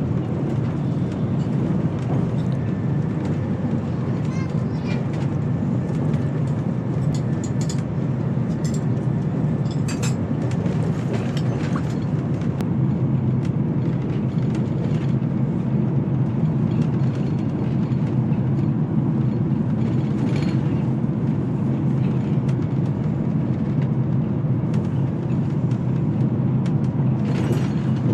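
Steady low rumble of a Eurostar high-speed train running at speed, heard from inside the passenger coach, with scattered light clicks. Near the end the rumble grows slightly louder as a train goes by on the next track.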